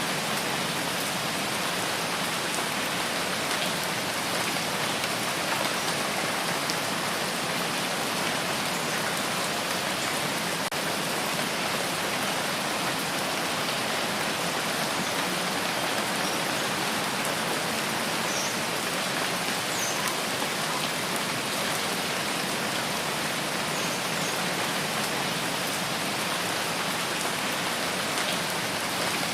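Steady rainfall in a rain forest, an even hiss of rain falling on foliage and ground.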